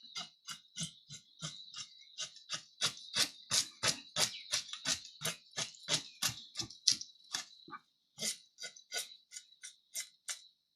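A steady run of sharp clicks or taps, about three a second, over a faint steady high-pitched hiss; the clicks stop near the end.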